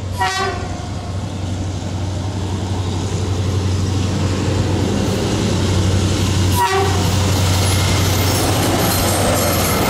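Diesel locomotive approaching, its low engine rumble growing steadily louder. Two short horn toots sound, one at the very start and one about two-thirds of the way through.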